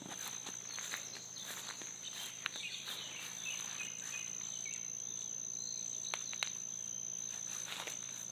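Insects in jungle undergrowth, one of them holding a steady high-pitched drone throughout, with fainter chirping in the middle. Scattered small clicks and rustles through it, in step with walking over the ground.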